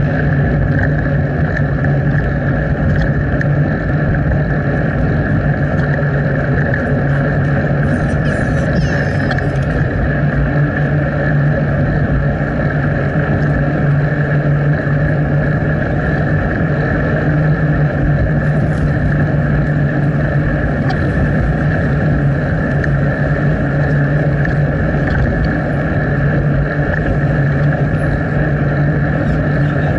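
Steady wind and riding noise from a moving bicycle, picked up by a small action camera's microphone, with a constant low hum and a hiss that do not change.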